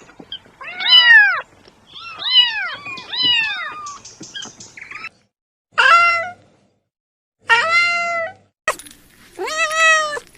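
Kittens meowing: a string of about seven separate, high-pitched meows, each rising then falling in pitch, some overlapping, with sudden silent breaks between groups.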